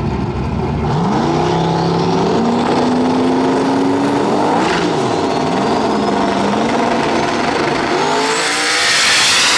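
1988 Ford Mustang drag car accelerating hard down the strip, its engine note climbing in pitch, falling back about halfway through as it shifts gear, then climbing again. A faint high whine rises alongside it, and the sound is loudest near the end.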